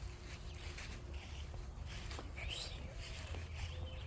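Faint outdoor background with a low steady rumble and a few faint, short bird calls.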